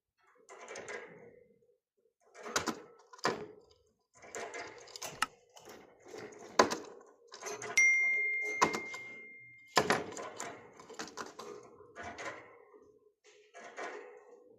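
Kitchen utensils and dishes clattering, scraping and clicking in short bursts, as when food is mixed and handled. About eight seconds in, one struck item rings with a clear tone that fades over about two seconds.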